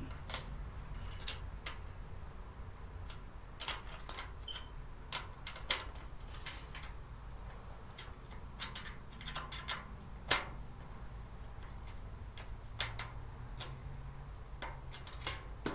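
Scattered light clicks and taps of metal screws and parts being handled and tightened, at irregular intervals, with one louder click about ten seconds in.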